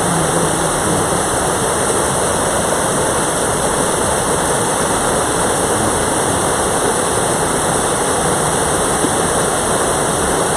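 Mountain valley stream rushing steadily: a loud, even rush of flowing water.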